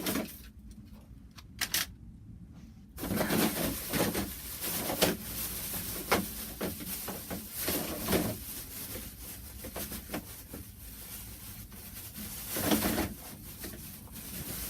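Model railway track pieces (points) being handled, with irregular clicking and clattering that begins about three seconds in.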